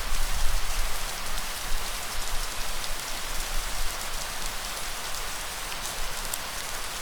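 Steady rainfall, a dense even hiss with individual drops ticking sharply on a surface. A low rumble swells underneath in the first few seconds and returns near the end.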